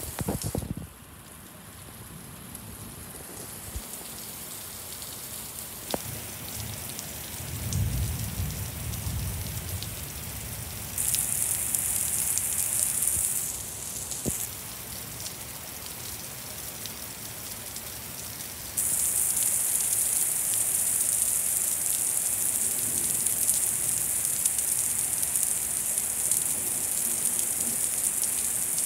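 Very heavy thunderstorm rain falling hard and steady, with a low rumble of thunder about eight seconds in. The rain's hiss gets louder about eleven seconds in and again, to its loudest, near twenty seconds.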